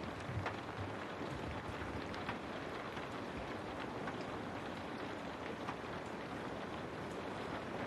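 Steady rain falling on a window pane, with scattered individual drops striking the glass.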